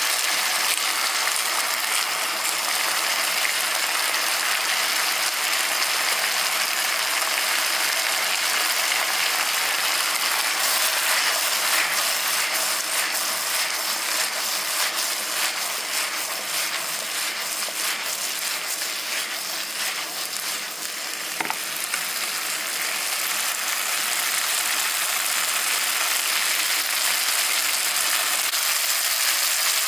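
Chopped potato, eggplant and okra sizzling in oil in a nonstick frying pan, a steady frying hiss. Between about 10 and 20 seconds in, the pieces are tossed and clatter against the pan.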